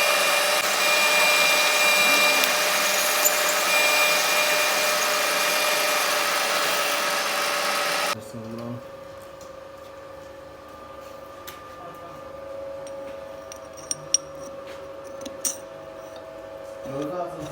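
Metal lathe drilling into a metal workpiece: a loud, steady machining noise with a few steady tones. About eight seconds in it drops suddenly to a much quieter steady hum with scattered clicks and ticks.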